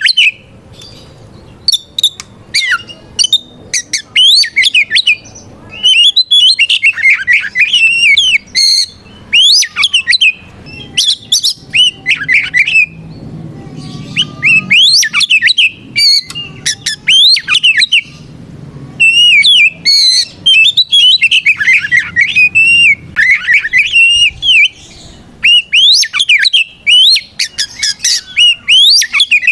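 Oriental magpie-robin (kacer) singing loudly in fast, varied bouts of quick whistled phrases and trills, each bout a few seconds long with short pauses between: its full-voiced song calling out a rival to fight.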